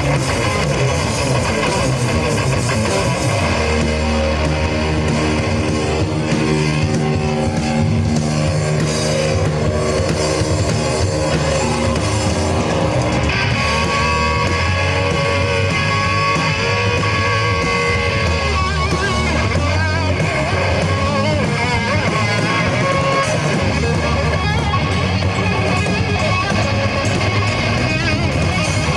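Live rock band playing an instrumental passage, led by distorted electric guitar over bass and drums.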